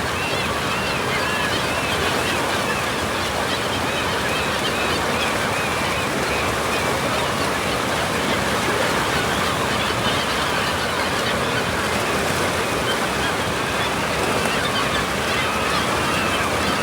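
Steady rush of moving water, with faint wavering high cries of gulls over it in the first few seconds and again near the end.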